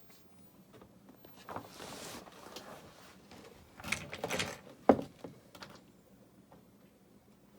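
River rocks being handled and set into a mortar base: a scrape, then a rattle of stone on stone, and one sharp knock about five seconds in.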